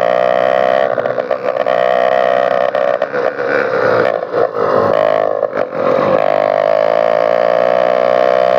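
Small motorized-bicycle engines running loud through bare straight exhaust pipes with no muffler, giving a steady buzzing exhaust note. The note dips and shifts briefly between about four and six seconds in.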